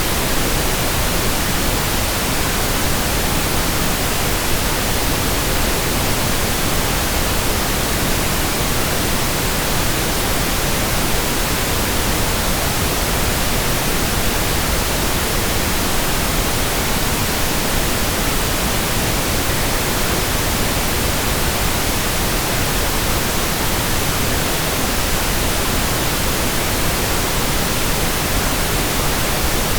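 Steady pink noise: an even, unchanging hiss across all pitches, with no events or variation.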